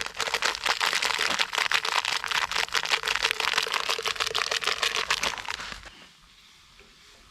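Dense, rapid crinkling and crackling that stops abruptly about six seconds in.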